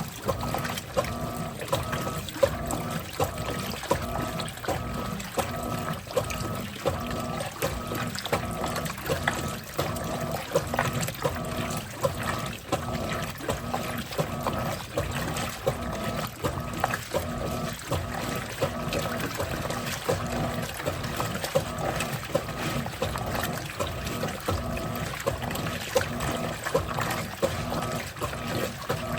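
Electrolux top-loading washing machine filling its tub for the first rinse: water running and splashing in steadily, with a steady hum alongside.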